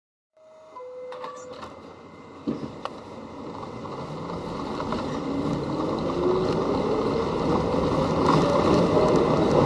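A short two-note falling chime, a few sharp knocks, then a subway train pulling away: the running noise builds steadily louder while a motor whine climbs in pitch as it accelerates.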